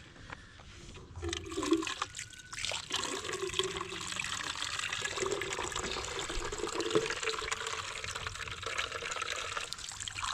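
Water pouring and splashing, starting about a second in and running on steadily.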